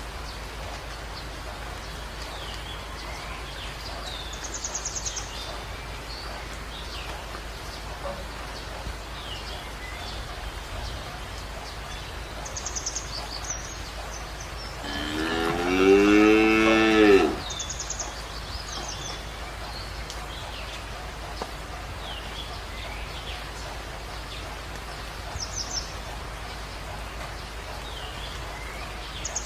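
A cow moos once, a single call of about two and a half seconds midway through, dropping in pitch as it ends. Underneath runs a steady hiss with short high chirps every few seconds.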